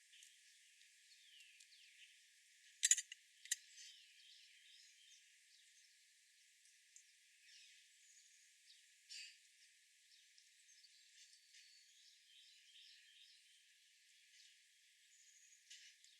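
Small birds chirping and calling faintly, many short high chirps and little gliding calls, with a loud burst of sharp clicks about three seconds in.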